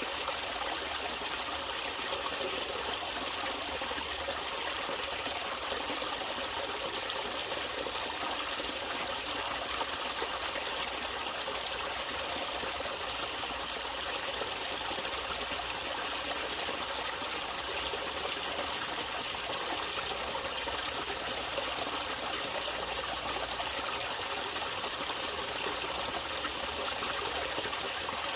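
Natural running water trickling and splashing in a steady, unbroken rush.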